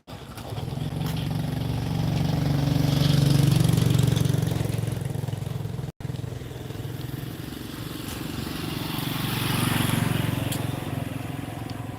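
A motor engine running steadily with a low hum, growing louder and easing off twice.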